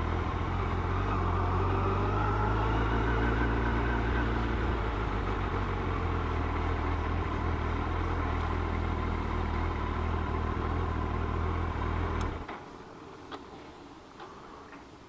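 Motorcycle engine running steadily, then shut off about twelve seconds in. A few faint clicks follow in the quiet.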